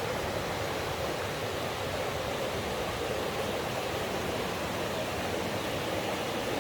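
Mountain stream rushing over rocks, a steady, even sound of flowing water.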